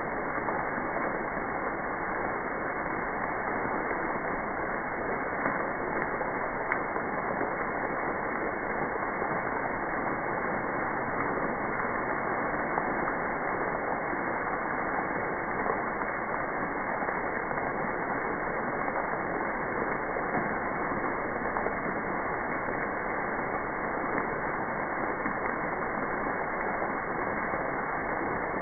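Freezing rain falling in a steady hiss, with a couple of faint ticks about six seconds in.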